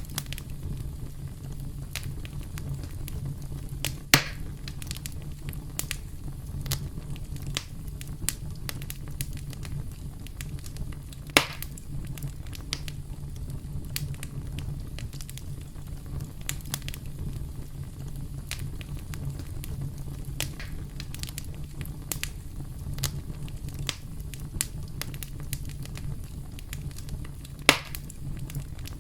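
Campfire burning: a steady low rumble of flames with frequent small crackles and pops, three of them sharply louder.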